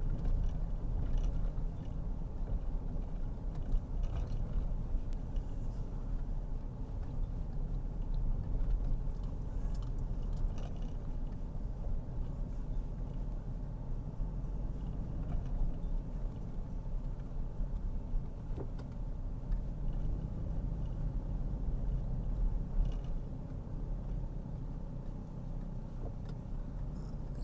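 Car driving along a road, heard from inside the cabin: a steady low rumble of engine and tyres, with a few light clicks and rattles.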